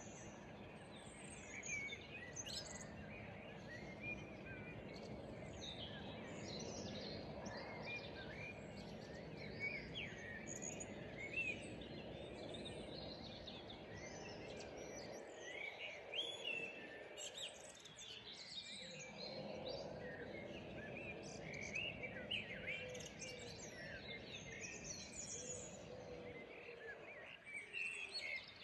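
Small birds chirping and twittering in many short calls over a faint, steady low background rumble. The rumble drops away briefly about halfway through and again near the end.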